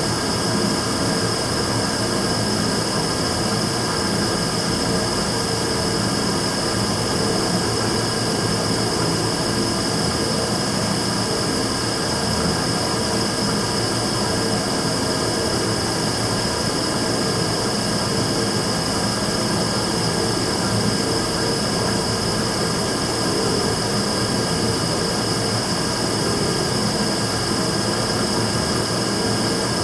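Immersion tube burner running steadily: an unbroken combustion and fan noise with a strong high whine and a fainter low hum, which the owner records as an abnormal noise.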